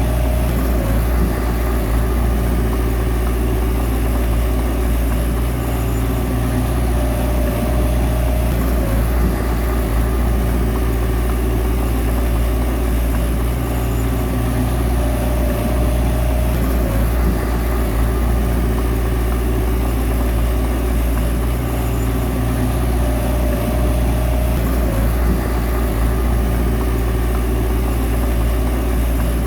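Bulldozer's diesel engine running steadily under load while pushing soil, with a higher tone that rises out of it for a second or two about every eight seconds.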